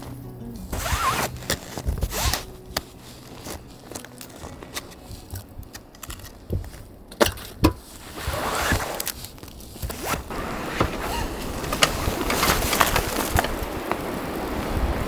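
Scattered clicks, knocks and scrapes of gear being handled, then a rushing hiss of strong wind that builds through the second half.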